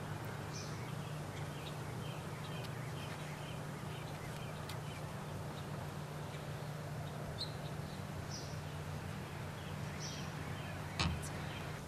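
Birds chirping in short, scattered calls over a steady low hum, with one sharp click about eleven seconds in.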